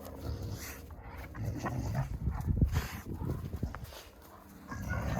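Cane Corso dogs making rough, irregular play noises while romping in the snow, loudest about halfway through.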